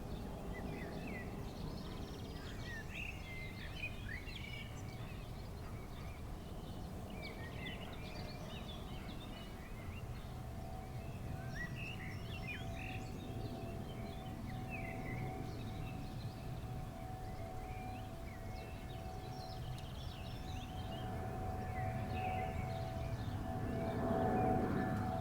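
Songbirds chirping over a low, steady rumble. About halfway through a steady engine whine sets in, and near the end the rumble and whine grow louder as a jet airliner on landing approach draws near.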